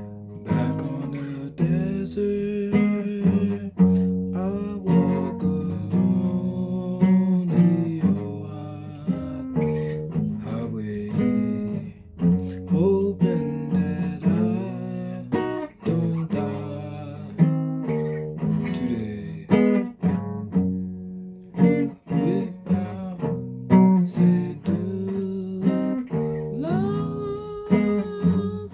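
Guitar being played: a continuous run of picked notes and chords, with a few notes sliding upward near the end.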